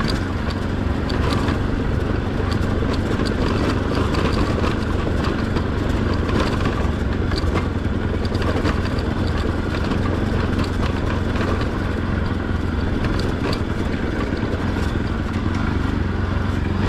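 Motorcycle engine running steadily while riding over a rough gravel road, with scattered clicks and rattles over the engine note.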